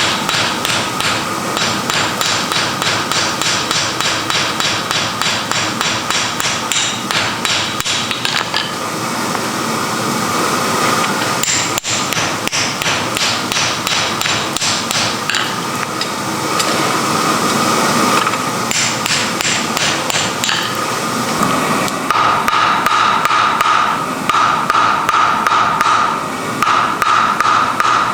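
Rapid, regular hammer blows forging iron, several strikes a second with short lulls. In the last few seconds the blows carry a stronger ringing tone.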